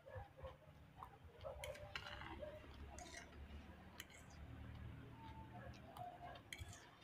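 Faint eating sounds: chewing and small mouth clicks, with a few scattered light taps, while fried fish and rice are eaten.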